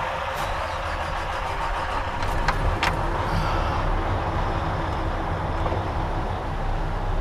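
Semi-truck's diesel engine running steadily with a low rumble, with two short clicks about two and a half and three seconds in.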